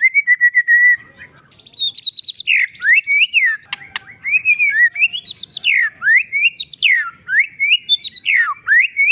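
Loud songbird song from a masteran, a training track for white-rumped shamas: a rapid trill of repeated notes, a brief pause, a fast buzzy series, then a long run of sweeping whistles that rise and fall several times a second.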